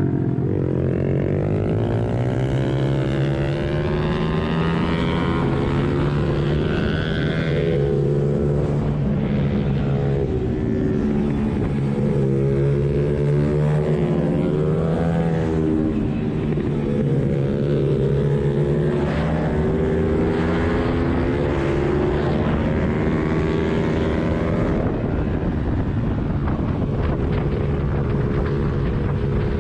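Suzuki Hayabusa inline-four engine in a pit bike running at speed, its pitch rising and falling several times as the rider accelerates and backs off.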